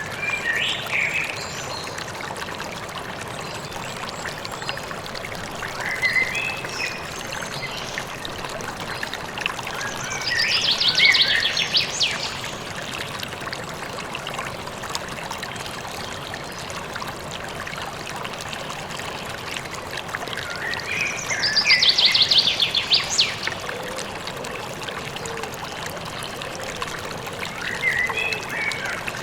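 River or stream water flowing steadily, with birds singing over it: several short song phrases, the two loudest being rapid trills about ten seconds apart.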